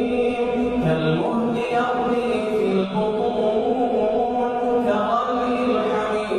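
A man's voice reciting the Quran in a slow melodic chant, holding long drawn-out notes that bend slowly in pitch.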